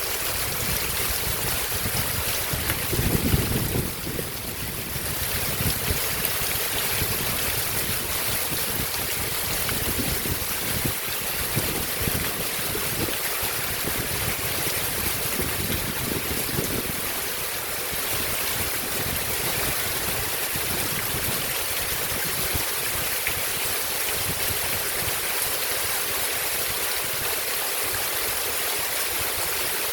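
Heavy rain falling, a steady hiss with no letup. Irregular low rumbles come and go through the first half, strongest about three seconds in.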